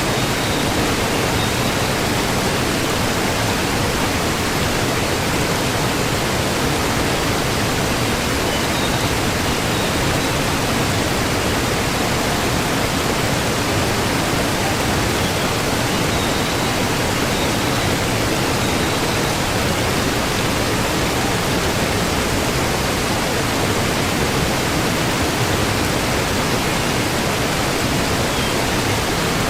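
Waterfall, a steady loud rush of falling water with no change.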